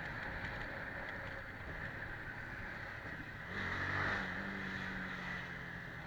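Vehicle engine running with road and wind noise while driving. About three and a half seconds in, the engine gets louder and its pitch rises, then holds steady.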